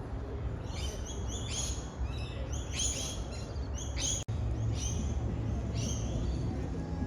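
Birds chirping in quick repeated clusters of short high calls, over a steady low outdoor rumble. The sound cuts out for an instant about four seconds in.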